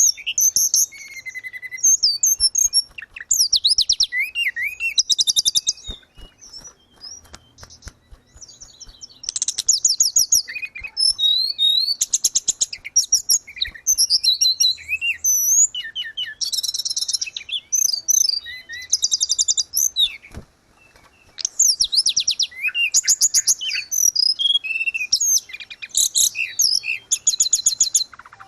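Tledekan gunung songbird singing: phrases of rapid high trills and quick whistled notes, repeated with short pauses, twice broken by a quieter gap of a second or more.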